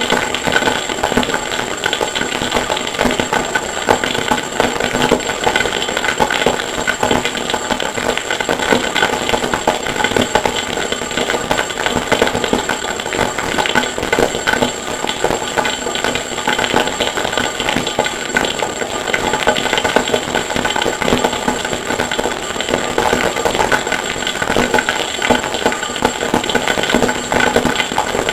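Harsh noise music: a dense, unbroken wall of grinding, rattling noise with a steady high whine on top, built from processed forge and anvil recordings. It holds a constant level with no pauses or separate hammer blows.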